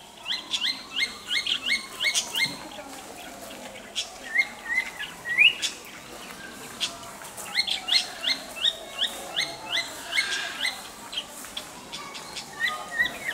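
A small bird chirping in quick runs of short, repeated notes, with pauses between runs. A faint tone slowly rises and falls underneath.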